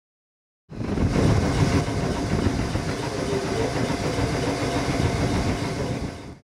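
Tobu 6050-series electric train standing at the platform: a steady hum and rumble from its running equipment. It starts abruptly about a second in and cuts off just before the end.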